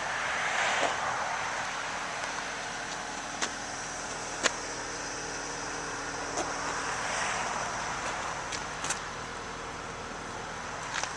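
A car's 2.0-litre engine idling steadily after a cold start, with exhaust noise that swells twice and a few sharp clicks. It is running normally, with only condensation in the exhaust.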